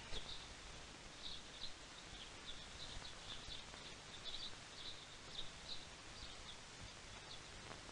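Small birds chirping: short, high chirps repeated irregularly throughout, faint over a light hiss.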